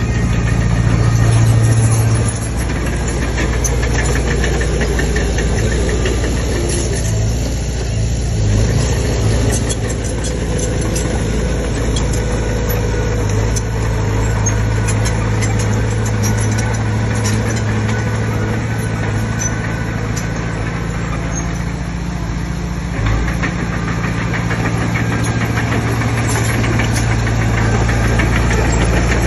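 Komatsu D20P bulldozer's diesel engine running steadily under working load, with scattered clanks and rattles over the engine note.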